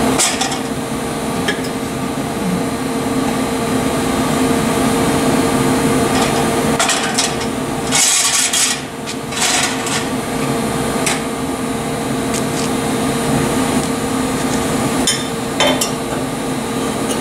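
A muffler being worked into place under the car: scattered knocks, clanks and short scrapes of metal on metal, busiest in the middle and again near the end, over a steady background hum.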